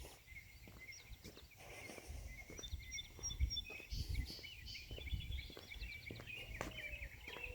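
Several songbirds chirping and trilling outdoors, with rapid runs of short high notes starting a couple of seconds in, over soft irregular footfalls of someone walking.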